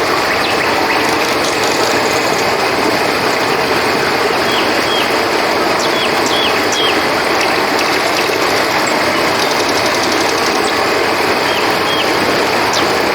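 River water running steadily, with crickets chirping in a constant high drone. Short high chirps come in small groups several times, and there is a brief fast trill about ten seconds in.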